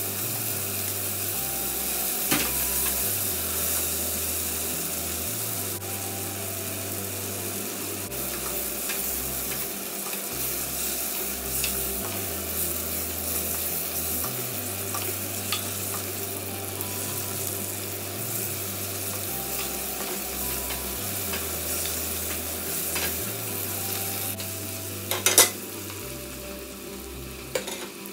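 Snow peas, baby corn and mushrooms sizzling as they stir-fry in a pot, stirred with a spatula. A few sharp clicks cut through the steady sizzle, the loudest near the end.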